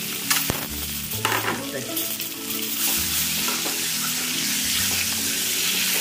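Boiled eggs sizzling in hot oil with chilli powder and turmeric in a metal kadhai, stirred and turned with a silicone spatula, with a few knocks against the pan in the first second or two.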